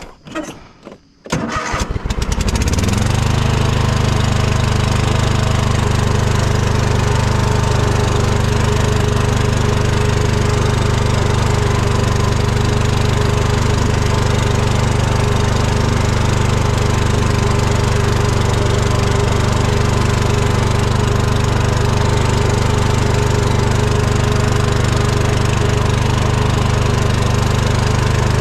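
Riding lawn mower's engine starting about a second in, then running steadily at an even speed.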